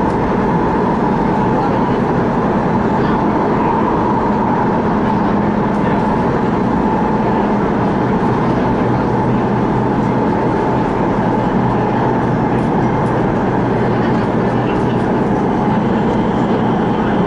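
CRRC Changchun-built MTR West Rail Line electric train running between stations: a steady rumble of wheels on track with a steady hum laid over it.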